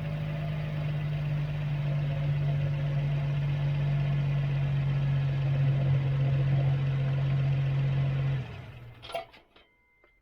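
Re-release Land Cruiser 70's 4.0-litre V6 running steadily with a worn clutch release bearing making noise. The sound cuts off about eight seconds in, followed by a single clack.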